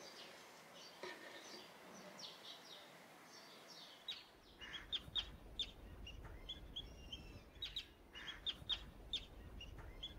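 Small birds chirping in short, repeated high notes, faint. About four seconds in, a low steady hum comes in under the chirps.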